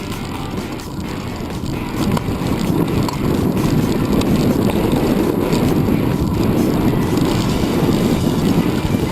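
Wind noise on the microphone: a steady rumble that gets louder about two seconds in.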